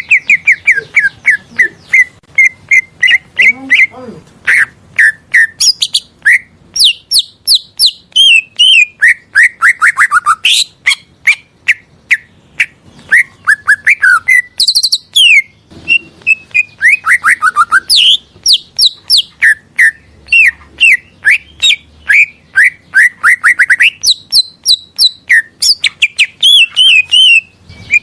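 Green leafbird (cucak ijo) singing a fast, unbroken song of varied chirps and quick sweeping whistles, with runs of falling notes and sharp high trills.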